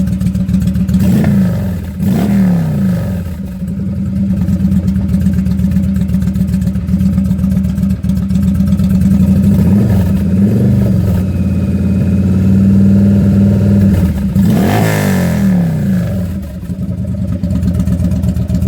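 2008 Yamaha V Star 1100's air-cooled V-twin idling through its gutted, completely hollow factory mufflers, very burbly and very hollow sounding. The throttle is blipped three times, the revs rising and falling back: about a second in, a smaller blip around ten seconds, and the biggest about three-quarters of the way through.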